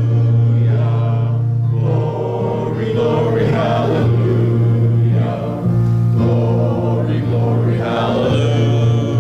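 Congregation singing a hymn in phrases, over a sustained low instrumental accompaniment.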